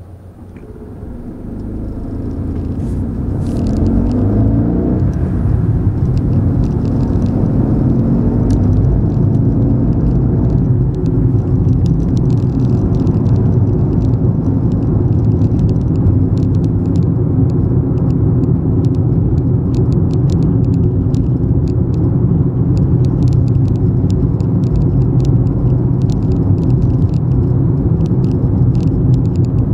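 Fiat 500 TwinAir's 875 cc two-cylinder turbo engine, heard inside the cabin, pulling away from a stop: the engine note climbs as the car accelerates through the low gears over the first several seconds. After that comes a steady rumble of the engine and road noise from the tyres while cruising.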